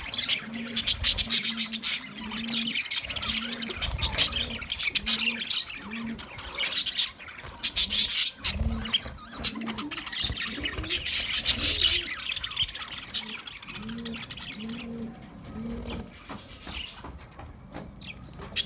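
A flock of small Australian parrots (parakeets) chattering and chirping in busy, dense bursts, thinning out in the last few seconds. Short low cooing notes repeat underneath.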